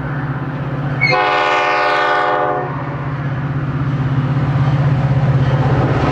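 A Metra commuter train's EMD diesel locomotive runs with a steady low drone. About a second in, it sounds one blast of its Nathan P5A five-chime air horn, lasting about a second and a half.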